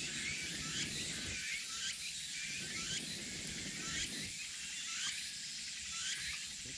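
Forest ambience: a steady chorus of insects with many short, repeated rising chirps, over a low crackle from a small campfire.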